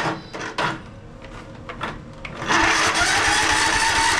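A few clicks, then about halfway through the electric starter of a Kohler Courage 17 hp single-cylinder engine cranks it over, loud and steady, with a pitch that rises as it spins up. The engine now turns over freely on a freshly charged battery, the sign that the no-crank fault was a weak battery.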